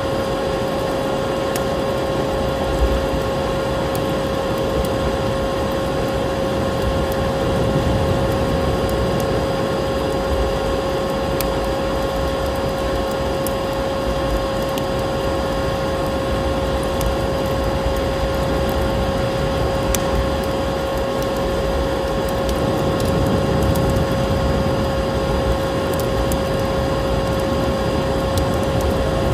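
Steady, unchanging hum of a vacuum cleaner motor over a wide rushing noise, with scattered crackles and pops of a wood fire.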